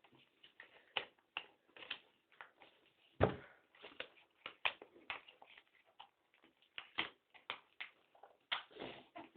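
Sheet of paper being handled and folded: irregular crackles and taps several times a second, with a few louder crinkles.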